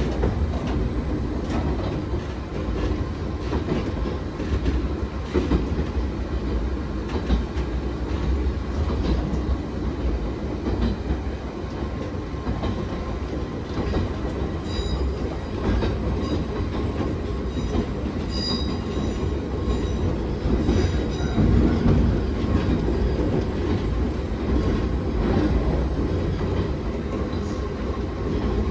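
Nagano Electric Railway 3500 series resistance-control electric train running along the line: a steady rumble with clicks from the rail joints. From about halfway through, high-pitched wheel squeal comes in for several seconds, as on a curve.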